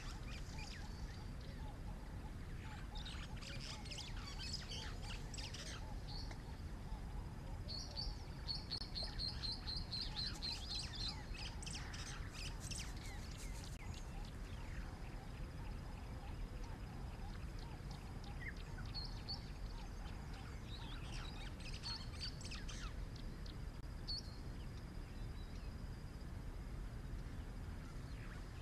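Wild birds chirping and calling in several spells of high notes, with a fast run of repeated notes from about eight to eleven seconds in, over a steady low background noise.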